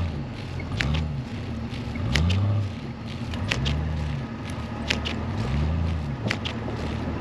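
Jeep Cherokee XJ engine rising and falling in pitch in repeated cycles, about once every second and a half, while driving through deep snow. Scattered sharp clicks and ticks sound over it.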